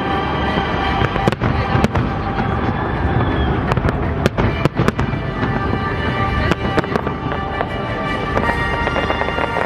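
Fireworks display going off in a dense barrage: many sharp bangs and crackles over a low rumble, with music playing along.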